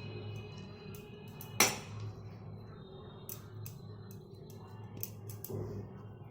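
Soft background music under scattered small clicks and scrapes of a spoon on a plate as potato filling is spread onto bread slices, with one sharp tap about one and a half seconds in.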